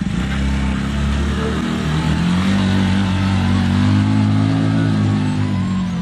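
A 250cc cargo motor tricycle's engine revving hard under load on a climb. It rises in pitch over the first couple of seconds, then holds and eases off slightly near the end.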